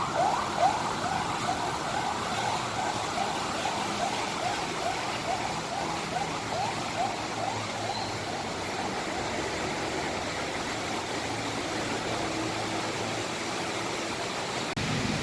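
Siren-style horn on an arriving bus giving fast, repeated rising whoops, about two or three a second, fading away over the first half, over the steady hum of bus and traffic engines.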